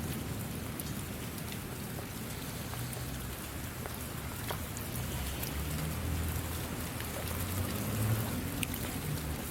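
Steady rain falling, with scattered sharp drop ticks over a continuous hiss. A low rumble swells in the second half.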